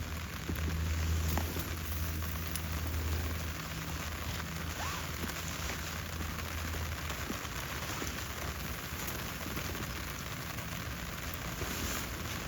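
Steady rain falling, a dense even patter with a few faint drips, and a low hum that fades away over the first few seconds.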